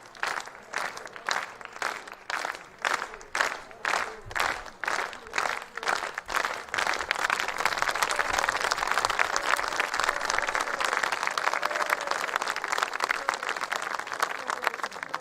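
A crowd clapping together in one steady rhythm, about two claps a second. Roughly halfway through, the rhythm breaks into a burst of ordinary continuous applause.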